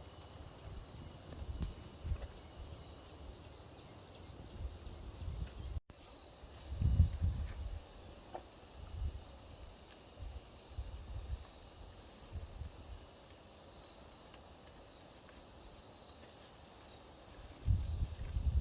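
Steady, shrill insect chorus of crickets or cicadas, broken by irregular low thumps and rumbles, the loudest about seven seconds in and again near the end.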